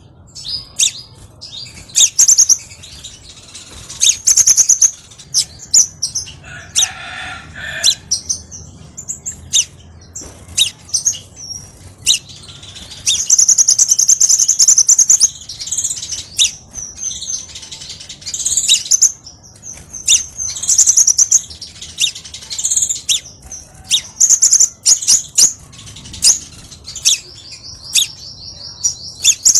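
Crimson sunbird singing: fast, sharp, high-pitched chirps and twittering, with a long rapid trill about 13 seconds in and another near the end.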